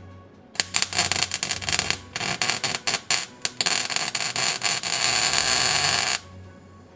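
Arc welder tacking a steel suspension bracket: crackling bursts starting about half a second in, broken and stop-start at first, then one steadier run of a couple of seconds that cuts off suddenly near the end.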